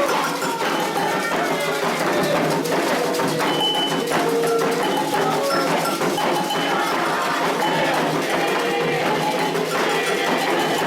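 Candomblé ceremonial music: struck percussion, with a bell or wood-block-like clack in a dense steady rhythm, under voices singing.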